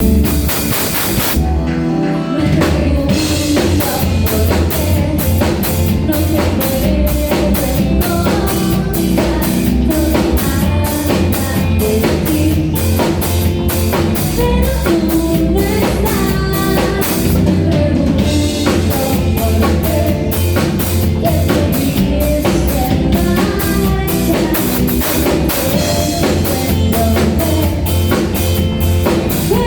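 Rock band playing a song, with a steady beat on a drum kit, bass and electric guitar.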